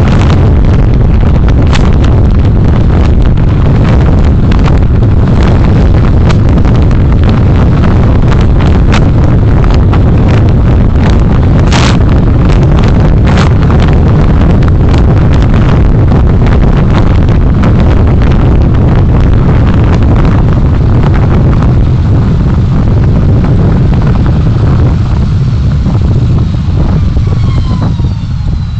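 Heavy wind buffeting on the recorder's microphone over the road and engine rumble of a moving vehicle, with scattered crackles. Near the end the buffeting eases and a faint falling whine comes through.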